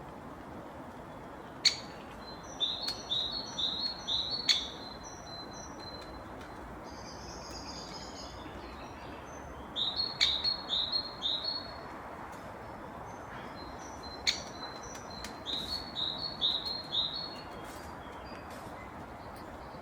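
A bird singing three short phrases, each a quick run of about five or six repeated down-slurred high notes, with a few sharp single chips in between.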